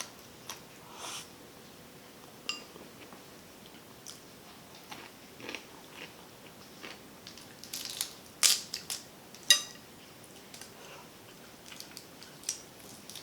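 Close-miked eating of a shrimp and snow crab boil: chewing and biting, with scattered sharp clicks and a cluster of louder cracks about eight to nine and a half seconds in.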